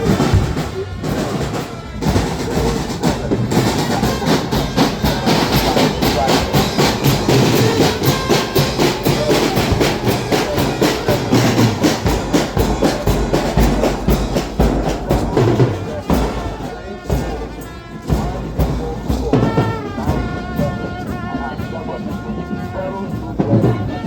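Fast, loud drumming, the beats coming thick and quick. Voices join in over the last few seconds.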